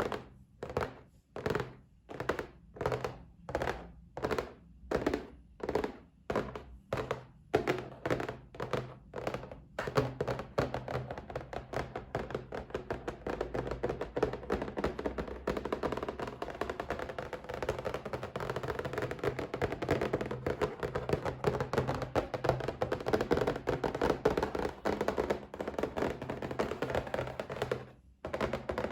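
Fingers tapping on a box: slow, separate knocks about two a second, then after about ten seconds quick, continuous rapid tapping that stops briefly near the end.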